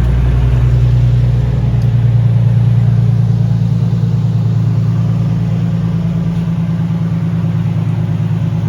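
Nissan 350Z's V6 engine running steadily with a low drone, its tone shifting slightly about two seconds in.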